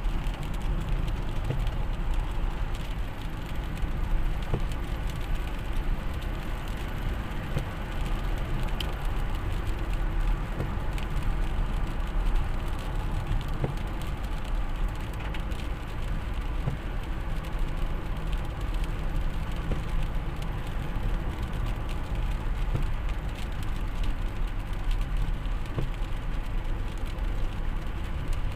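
Steady, unbroken rumble of a vehicle on the move: low road and engine noise.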